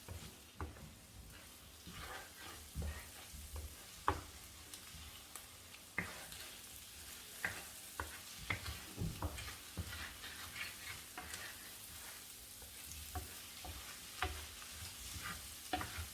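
Eggs and vegetables being stirred in a hot frying pan: a light sizzle with irregular scrapes and taps of the utensil against the pan.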